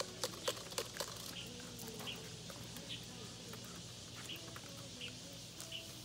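Quiet outdoor ambience with a bird giving short chirps about once a second, a few faint clicks in the first second.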